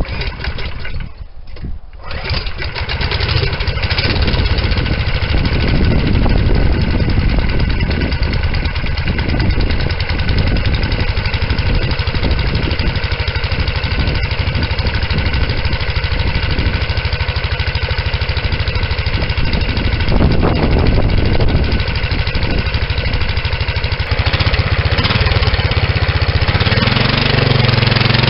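Go-kart's swapped-in 11 HP small engine starting and then running steadily, its sound changing a little near the end.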